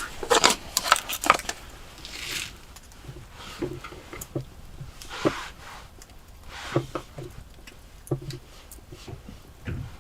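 Irregular clicks, taps and short rustles of objects being handled, loudest in the first second and a half.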